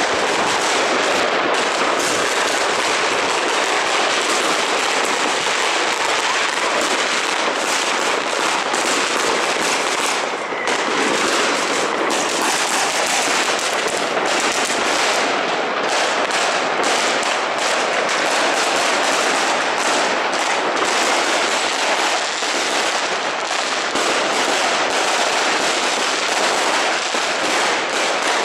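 Loud fireworks and firecrackers going off without pause. The bangs and crackles are packed so tightly that they run together into one unbroken din.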